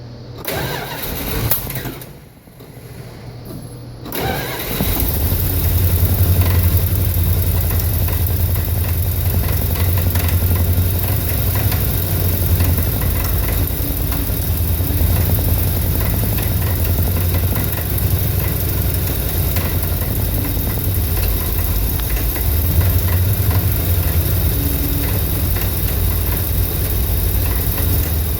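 1983 Dodge D250's 318 V8, fed by an Edelbrock 600 carburetor, being started: it turns over unevenly and catches about four seconds in, then settles into a loud idle that rises and falls. This is the rough, fluctuating idle that followed the swap from the Carter Thermoquad carburetor.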